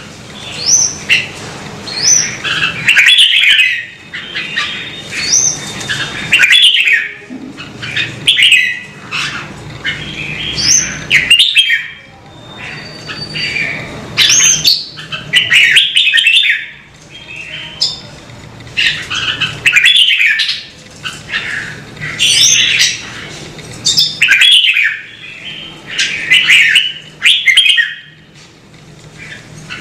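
Red-whiskered bulbul singing: short, loud, chirpy song phrases with quick upward-sweeping notes, one after another every second or two.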